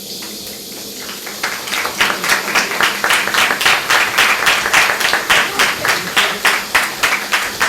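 Audience applauding. The clapping starts thin and fills in about a second in, then runs on as dense, fairly even claps.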